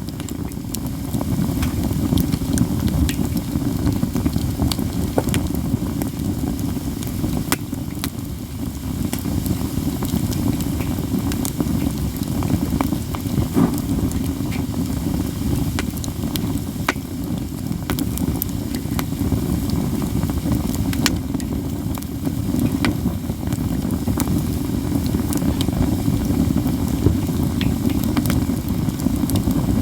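Katsura (Japanese katsura tree) wood burning in a campfire: steady crackling with scattered sharp pops over a continuous low rushing.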